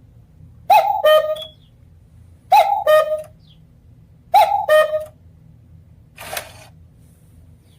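Cuckoo clock calling "cuck-oo" three times, each call a higher note falling to a lower one, about two seconds apart, followed by a short clack about six seconds in.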